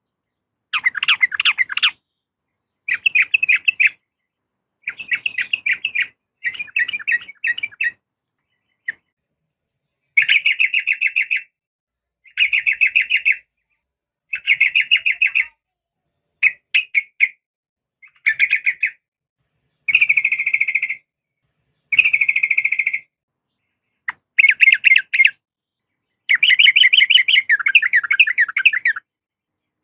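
Yellow-vented bulbul (trucukan) giving short bursts of rapid chattering notes, each about a second long, repeated every couple of seconds, with a longer burst near the end. This is presented as a female calling to a male.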